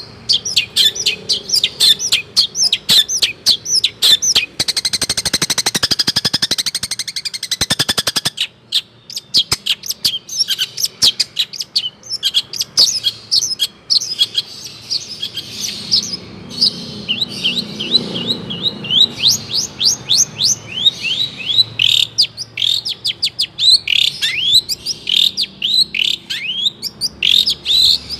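Long-tailed shrike (cendet) singing a fast, varied song of chirps and sweeping notes loaded with mimicked calls of other birds, including swiftlet. About four seconds in, a rapid buzzing trill runs for some three seconds before the chirping resumes.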